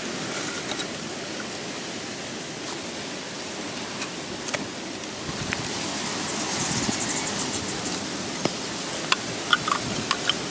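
Steady rain falling, an even hiss, with a handful of sharp ticks in the last two seconds.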